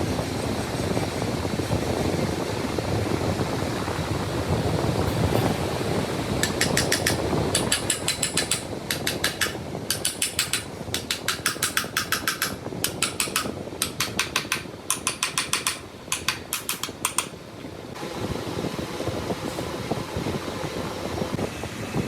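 An impact wrench rattling in a string of short bursts, each about half a second to a second long, for about ten seconds, over steady workshop noise.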